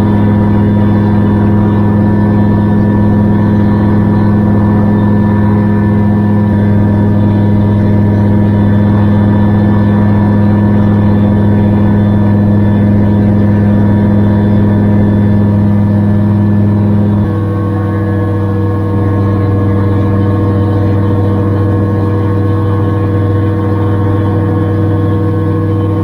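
Gyrocopter engine and propeller running steadily in flight, heard on board. About seventeen seconds in, the engine note changes abruptly and gets slightly quieter.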